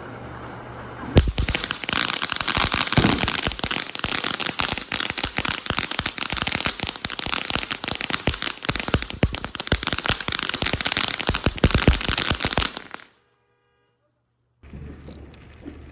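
A firework going off: a sharp bang about a second in, then about twelve seconds of dense, rapid crackling pops that cut off suddenly.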